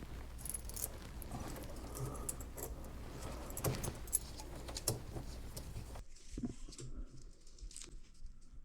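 Small metal objects clinking and jangling in a run of short, irregular clicks over a low steady hum; about six seconds in, the hum cuts off suddenly.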